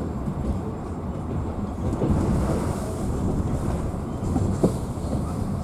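Passenger train running along the line, heard from inside the carriage: a steady rumble of wheels on rail with the beat of the wheels over the rail joints. There is a brief squeak about four and a half seconds in.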